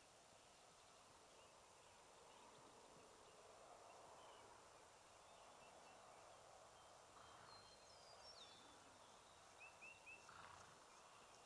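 Near silence with faint outdoor ambience and a few faint bird chirps, including three quick chirps near the end.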